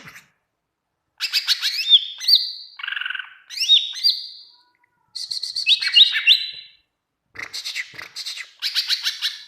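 Green leafbird (cucak ijo) singing in full song: three bursts of rapid, varied whistles and chattering notes sliding up and down in pitch, with short silent gaps between them.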